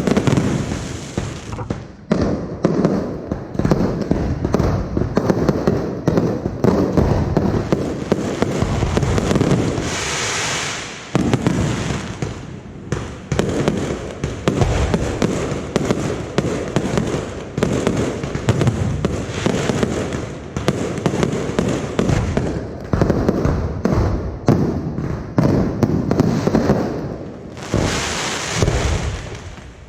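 Aerial fireworks display: shells bursting in a rapid, nearly continuous barrage of bangs and crackles.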